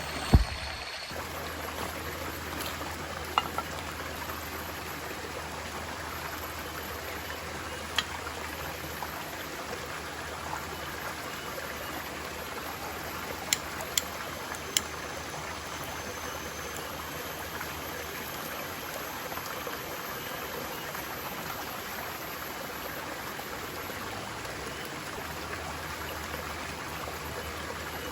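A forest stream running steadily, with a few sharp clicks or knocks, the loudest right at the start and a quick cluster of three about fourteen seconds in.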